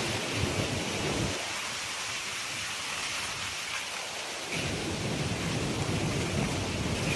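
Heavy rain pouring down in a thunderstorm, with a low rumble underneath that falls away for about three seconds and then comes back.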